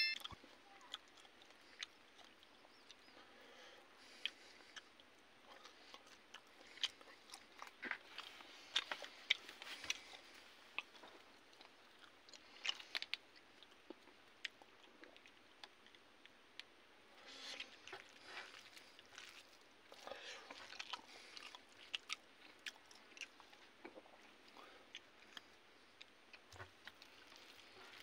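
Faint close-up chewing and crunching of fried fish and rice eaten by hand, in scattered clusters of small crisp clicks and smacks with quiet gaps between.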